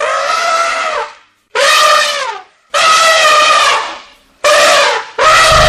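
Elephant trumpeting: a string of about five loud, brassy calls, each about half a second to a second long, with short breaks between them. A deep low sound comes in under the last call near the end.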